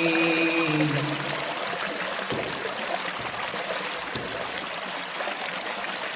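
A man reciting the Quran in a drawn-out, melodic chant holds the last word of a verse and breaks off about a second in. After that only a steady, even hiss remains.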